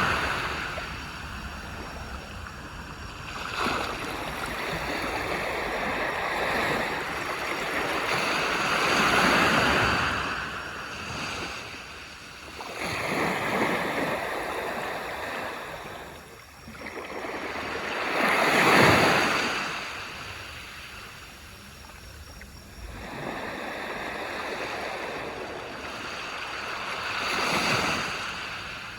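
Ocean waves breaking and washing up a beach, the surf swelling and fading every few seconds, with the loudest wave about two-thirds of the way through.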